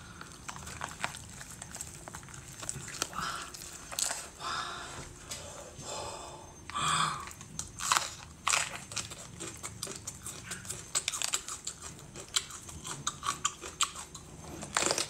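Biting and chewing a chili-coated seafood roll wrapped around raw green onion and cucumber: wet squishing mixed with many short, sharp crunches.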